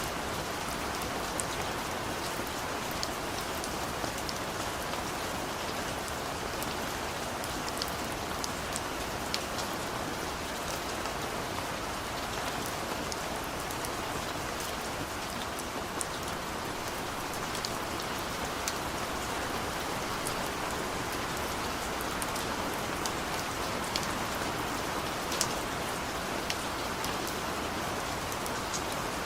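Steady rain falling, an even hiss with many individual drops ticking sharply on surfaces.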